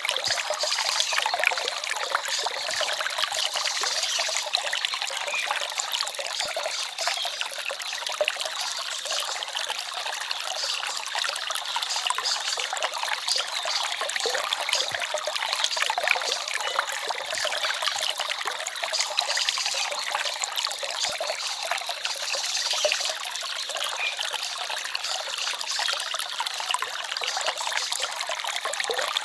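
Small forest stream trickling and babbling over stones: steady, bright splashing water with little low rumble.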